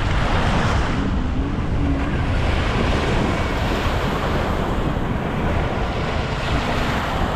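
Sea waves breaking and washing up on a beach, surging several times, with heavy wind rumble on the microphone.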